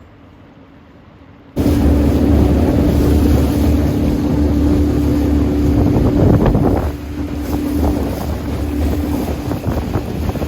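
Boat's outboard motor running under way, with heavy wind buffeting the microphone and water rushing past. It cuts in suddenly about a second and a half in after a quiet start, and eases somewhat about two-thirds of the way through.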